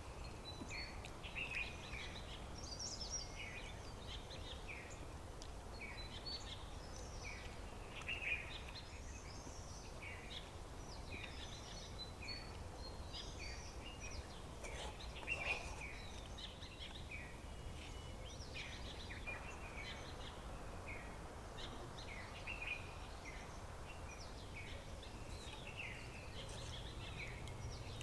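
Many small birds chirping and calling without a break, short notes from several birds overlapping, over a steady low rumble.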